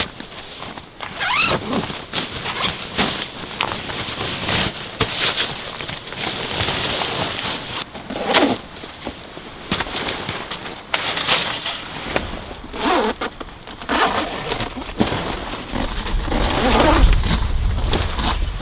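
A zipper pulled several times, with fabric rustling and handling in between. Wind rumbles on the microphone near the end.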